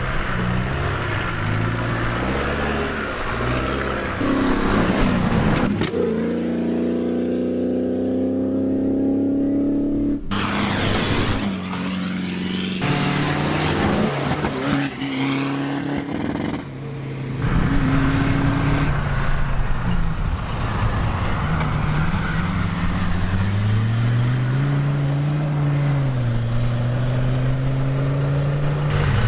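Off-road 4x4 engines revving and running under load, rising and falling in pitch, with abrupt changes every few seconds as one stretch of engine sound gives way to another.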